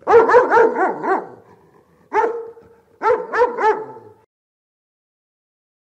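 A dog barking: a quick run of about five barks, a single bark about two seconds in, then three more, stopping about four seconds in.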